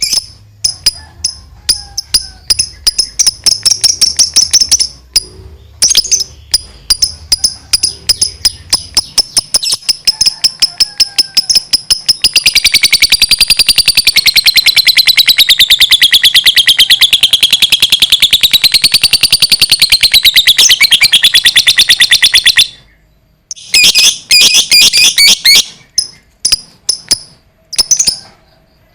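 Lovebird chattering in quick sharp chirps, then breaking into a long unbroken fast trill, the 'ngekek panjang', whose pitch wavers up and down. The trill runs for about ten seconds, stops abruptly, and a few more short bursts of chirps follow.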